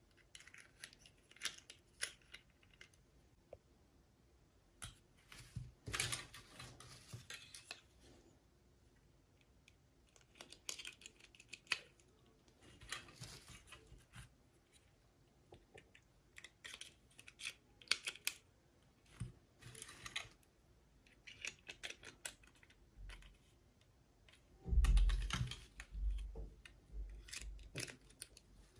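Hands unboxing small plastic doll toys: scattered light clicks, taps and rustles of plastic pieces and packaging, with a louder run of bumps and handling noise about three-quarters of the way through.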